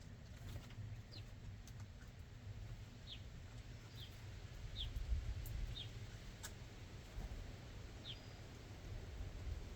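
Small birds giving short, high, falling chirps, about five of them spaced out over several seconds, over a steady low rumble.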